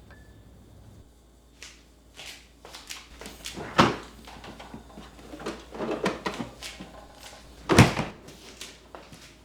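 Household objects being handled in a kitchen: scattered light clicks and clatter, with two louder knocks about four and eight seconds in.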